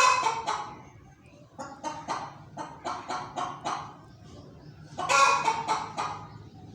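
A hen giving a run of short, rapid clucks, about three to four a second, broken by two loud, drawn-out squawks, one at the start and one about five seconds in.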